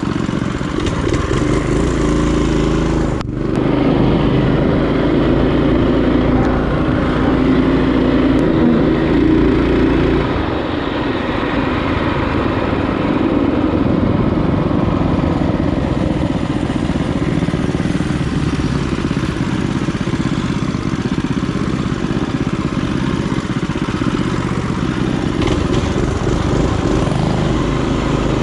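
Small single-cylinder four-stroke minibike engine running under way. It dips briefly about three seconds in, runs louder for several seconds, then settles a little lower.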